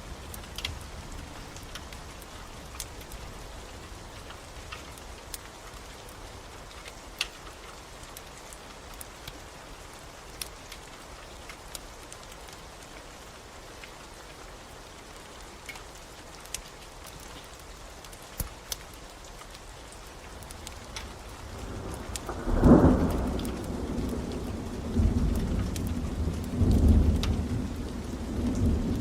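Steady rain with scattered sharp crackles of a wood fire. About 22 seconds in, a loud low roll of thunder starts and swells several more times.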